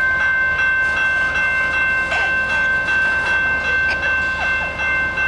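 Canadian Pacific freight train cars rolling slowly past, with a steady high-pitched squeal from the wheels and faint regular clacks over the rails.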